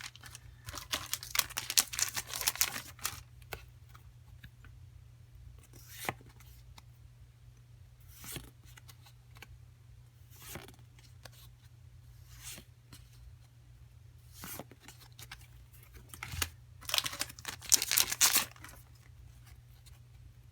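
Foil booster-pack wrapper being torn and crinkled, with trading cards handled in between: two spells of tearing and crackling, one about a second in and a longer one near the end, with small card clicks and rustles between them.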